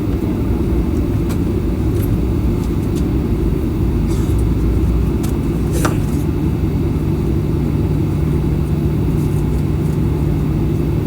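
Steady low rumble inside the cabin of a Boeing 737-800, from its CFM56-7B jet engines and the airframe. Scattered light clicks and rattles run through it, and a steady low hum joins about halfway.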